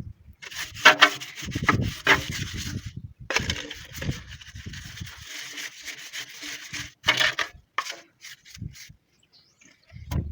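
Scratchy rubbing strokes in several bursts, mixed with low knocks.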